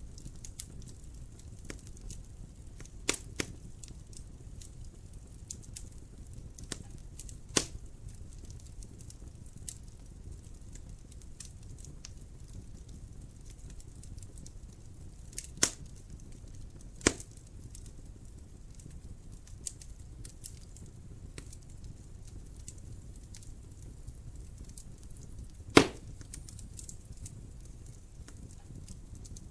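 Wood fire crackling in a fireplace: a steady low rumble of flames with scattered sharp pops, the loudest one about 26 seconds in.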